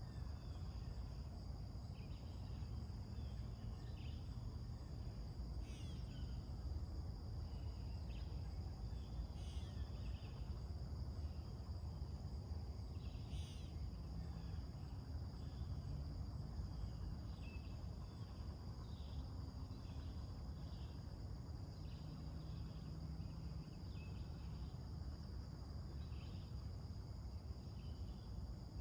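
Morning outdoor soundscape: a steady, high-pitched insect drone runs throughout, with many short bird chirps and calls scattered over it, over a low steady background rumble.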